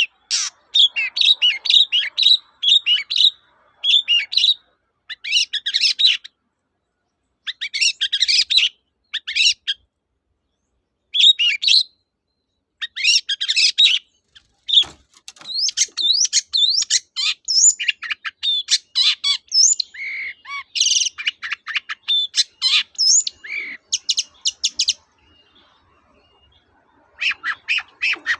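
Long-tailed shrike (cendet) singing: rapid runs of sharp chirps and quick rising and falling whistles, in bursts of a second or two with short pauses between, and a longer pause near the end.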